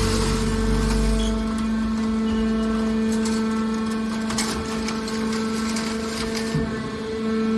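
Hydraulic metal baler running: a steady machine hum with a low rumble that fades about two seconds in, and a few short metallic clicks and knocks around the middle.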